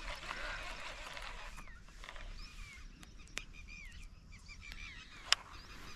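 Several wild birds calling: a dense mix of chirps at first, then sparser, repeated short curved chirps. A single sharp click about five seconds in.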